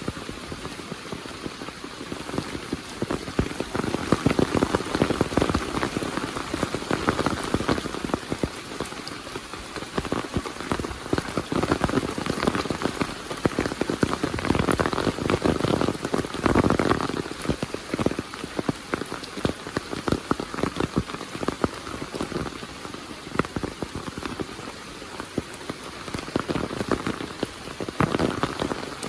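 Heavy rain falling, a dense patter of drops that swells louder and softer every few seconds.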